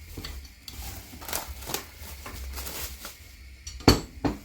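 Kitchen utensils and cookware clinking: scattered light taps and scrapes, then two sharp clanks near the end, the first the loudest, over a low steady hum.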